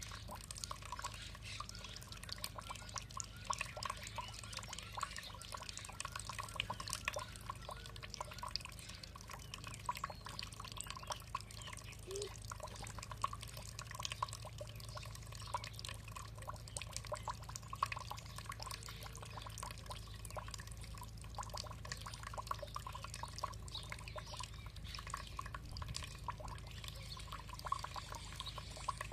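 Water trickling and dripping steadily, a dense patter of small drops and splashes.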